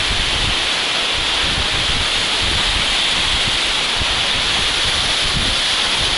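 Steady rush of a mountain waterfall close by, with an uneven low rumble of wind buffeting the microphone underneath.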